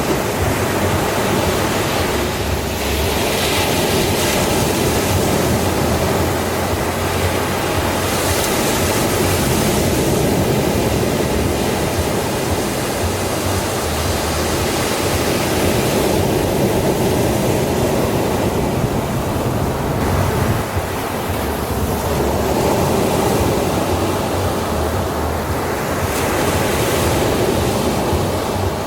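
Ocean waves breaking and washing onto a sandy shore as continuous surf, swelling and easing every few seconds.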